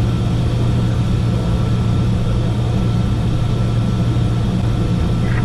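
Steady cockpit noise of a Learjet 45XR on approach: a loud, even low drone of engines and airflow, with a thin steady high tone over it.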